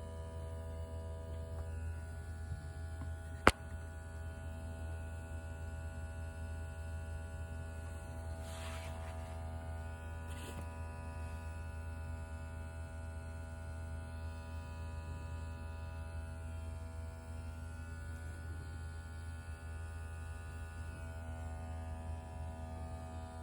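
Steady electric buzzing hum, typical of a smoke-test machine's air pump pushing smoke into an engine's intake to find a vacuum leak. There is one sharp click about three and a half seconds in, and two brief hisses around eight and a half and ten and a half seconds.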